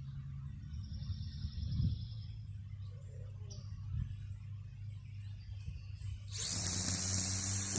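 String trimmer running steadily at a low, even hum, with a bird giving a short high trill about a second in. Near the end a loud hissing noise rises over the hum.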